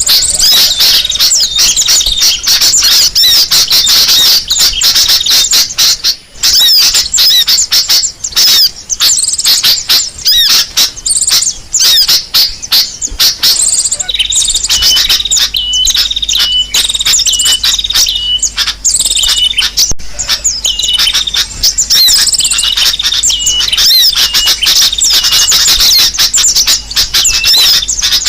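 Bird-lure recording of sunbird calls mixed with sooty-headed bulbul calls: a dense, rapid, high-pitched chirping and twittering, played loud. About halfway in, a short whistled note starts repeating about once a second.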